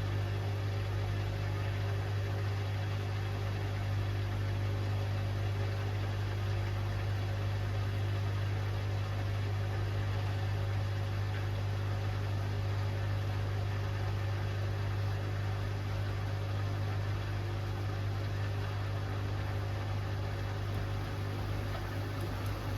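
Hoover Axi 10 kg front-loading washing machine running with a steady, unchanging low hum.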